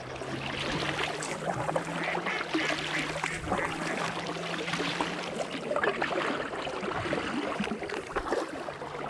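Kayak paddling: the blades of a double-bladed fibreglass paddle dipping in and out of the river, with water splashing and trickling off them and lapping around an inflatable kayak.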